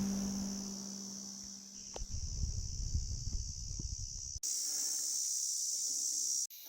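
Steady high-pitched insect drone of a summer mountain forest, with guitar music fading out at the start and a low rumbling noise from about two to four seconds in. From about four and a half seconds the insect drone is louder, then it cuts off suddenly near the end.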